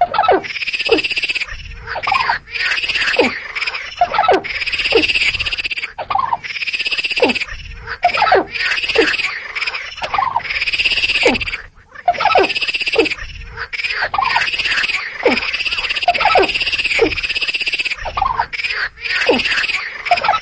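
Frogs croaking in a loud chorus, call after call, about once a second.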